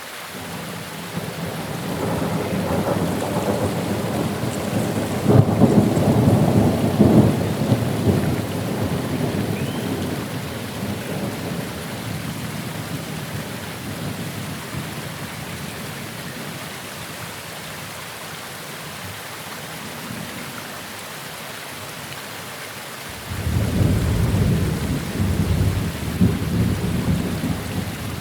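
Steady rain falling with two peals of rolling thunder: the first builds from about a second in, is loudest a few seconds later and fades by about ten seconds; the second breaks abruptly near the end and keeps rumbling.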